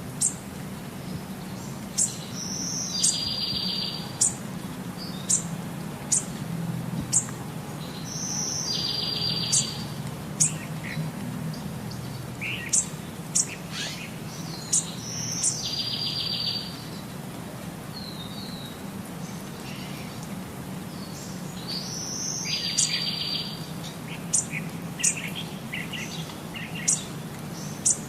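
Birds chirping: short sharp high chirps, with a buzzy trilled call that comes back about every six seconds, over a steady low hum.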